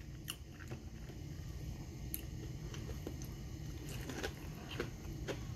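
A person chewing a breaded southern fried chicken goujon close to the microphone, with faint, scattered mouth clicks over a low steady hum.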